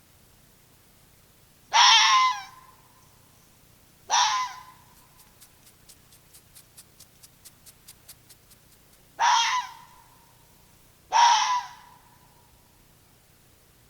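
An animal's harsh, screeching cries, four in all, each short and a few seconds apart, with faint rapid clicking between the second and third.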